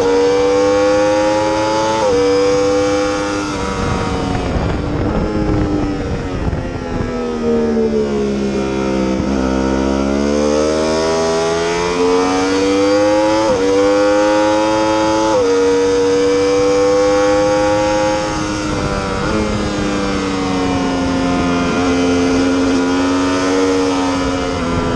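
Yamaha R1 sport bike's inline-four engine at high revs on track. The revs climb and step down sharply at upshifts, fall away to a low point near the middle, then build again through the gears.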